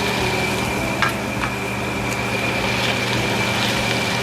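Steady motor-like hum with a thin high whine over it, and two light clicks about a second in.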